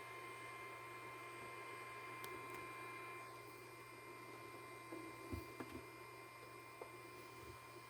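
Faint steady electrical hum with a few soft knocks about five to seven seconds in.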